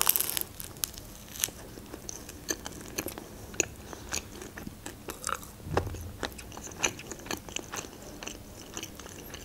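A bite into a toasted shawarma wrap, followed by close-miked chewing: a sharp crunch at the start, then irregular crisp crunches and small mouth clicks.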